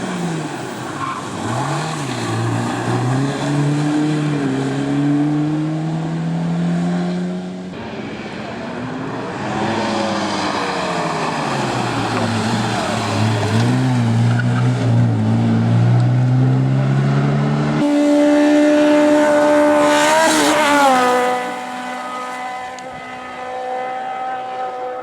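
Race car engines revving hard and shifting up and down through the gears, in several separate clips. In the last clip a car holds a steady high-revving note, whose pitch drops as it goes past.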